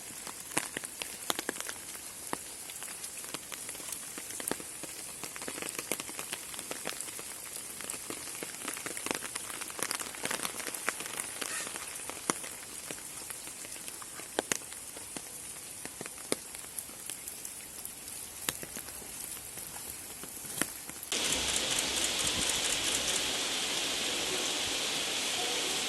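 Steady rain falling, with many single drops landing close by as sharp ticks. About 21 seconds in it suddenly becomes louder and denser, a heavier downpour.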